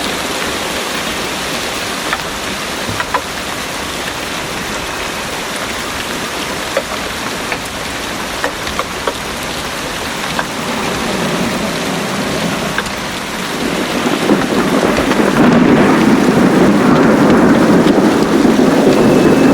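Heavy rain falling steadily with scattered drips, while a low, rolling thunder rumble builds from about halfway through and is loudest near the end.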